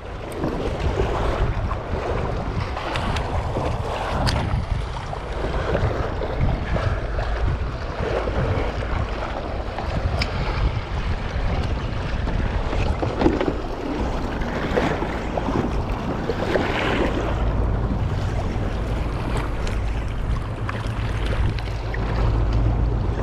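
Wind buffeting an action-camera microphone on a kayak, a steady low rumble, with water sloshing against the hull and a few light knocks.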